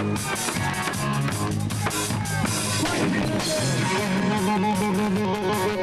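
Live rock band playing, with drum kit and electric guitar.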